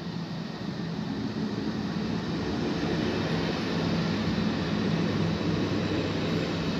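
Electric multiple unit running along the platform: a steady electric hum over rolling wheel noise, growing louder as the train comes alongside.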